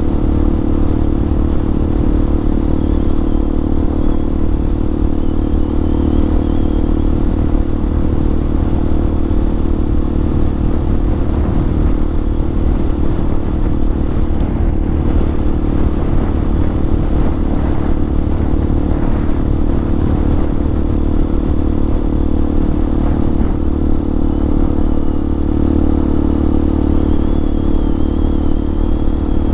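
Hawk 250 dual-sport motorcycle's single-cylinder engine running at a steady pitch while riding, its sound even throughout.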